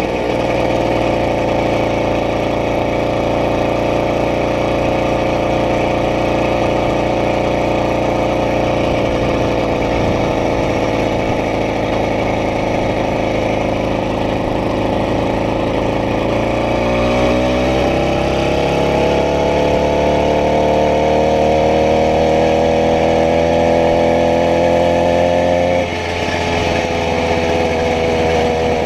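80cc bicycle conversion engine running steadily. About two-thirds of the way through it speeds up and holds a higher pitch, then drops back near the end.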